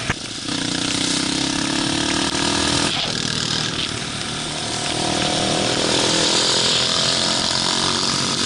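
Pit bike's small single-cylinder four-stroke engine revving up under throttle, its pitch rising, dropping at a gear change about three seconds in, then rising again, under a steady rush of wind on the microphone.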